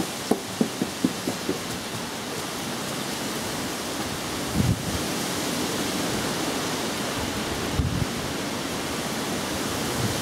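Storm wind and heavy rain making a steady, even hiss. A run of short taps in the first second and a half, and two low thumps later on.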